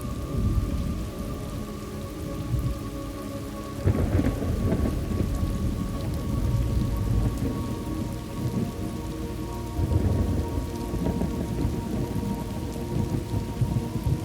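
Thunderstorm ambience: steady rain with deep rolls of thunder, one swelling up about four seconds in and another near ten seconds.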